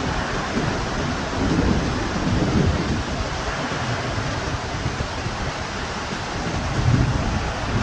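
Heavy rain and gusting wind, with wind buffeting the microphone in low rumbling swells about two seconds in and again near the end.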